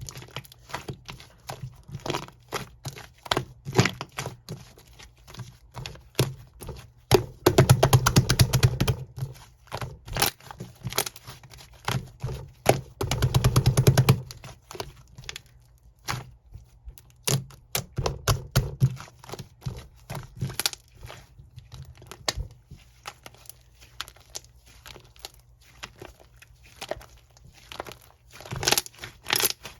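Soft mochi-type (chapssaltteok) slime being pressed and stretched by hand, giving a steady string of sticky clicks and pops, with two longer runs of fast crackling, one near the middle and one a few seconds later.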